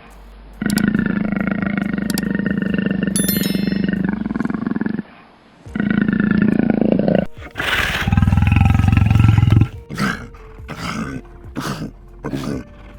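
A large wild animal's deep, drawn-out roaring calls, each lasting several seconds, with sudden breaks between them, followed by a run of short, clipped grunts near the end.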